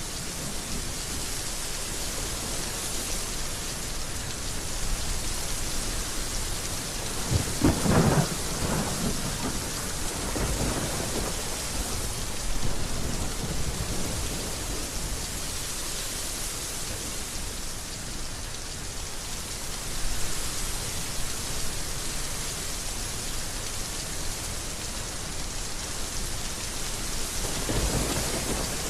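Heavy rain pouring steadily, with rolls of thunder rumbling over it several times, the loudest about eight seconds in.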